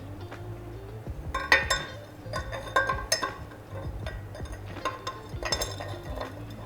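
New metal cylinder sleeves for a Renault 5 GT Turbo engine clinking and ringing as they are set into the engine block: several sharp metallic knocks, the loudest about one and a half seconds in, over quiet background music.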